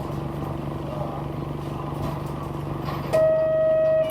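City bus engine running with a steady hum, heard inside the passenger cabin. About three seconds in, a loud, steady electronic tone sounds for about a second.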